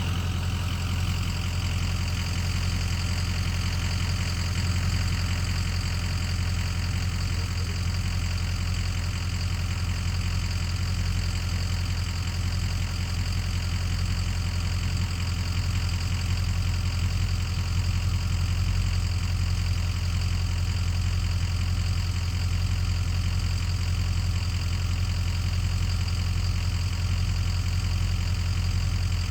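An engine idling steadily, holding the same low speed throughout with no revving.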